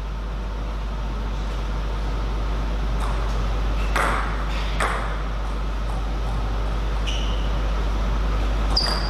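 A few sharp clicks, then short high-pitched pings a couple of times later on, from a table tennis ball, over a steady low hum and hall noise.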